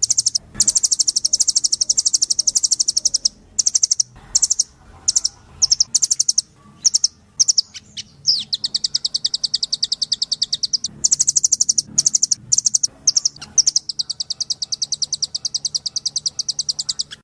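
Blue nuthatch (munguk loreng) calling: long, very fast trills of thin high notes, alternating with runs of separate single notes. A trill near the start gives way after about three seconds to spaced notes, then the pattern repeats twice more.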